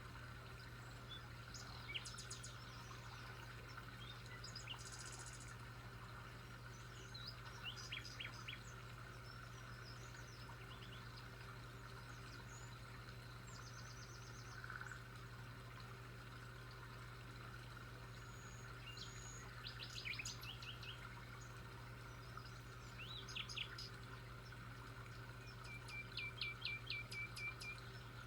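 Faint birdsong: scattered short chirps and trills from several birds, ending with a run of about eight quick repeated notes near the end, over a steady low hum.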